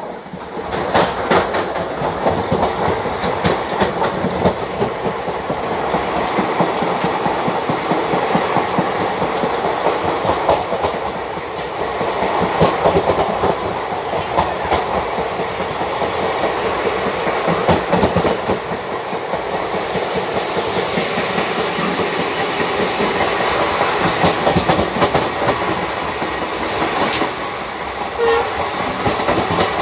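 Running noise of Indian Railways ICF passenger coaches at speed, heard from the open gap between two coaches: a loud, steady rumble of steel wheels on rail with frequent sharp clacks and rattles.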